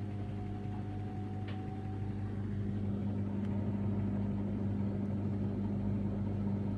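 Samsung Ecobubble washing machine with digital inverter motor running a spin, a steady motor hum with the drum slightly unbalanced.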